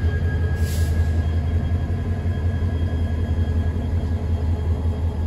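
Railway ballast hopper wagons being shunted slowly past by a diesel locomotive, giving a steady low rumble. A brief hiss comes about a second in.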